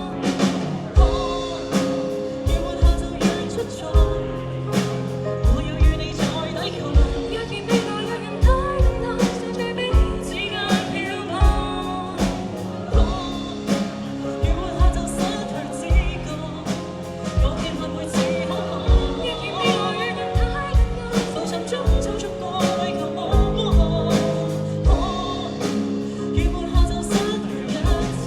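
Live band performing a song with a singer, a drum kit keeping a steady beat under sustained instrumental notes.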